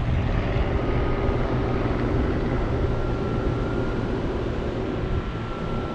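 Helicopter engine and rotor noise mixed with wind rushing over the microphone in flight, with a faint steady whine held above the rumble.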